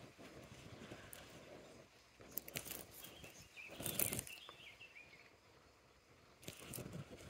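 Faint outdoor ambience with a bird calling briefly, a short run of high wavering notes about three seconds in, and a few short noisy knocks or rustles, the loudest about four seconds in.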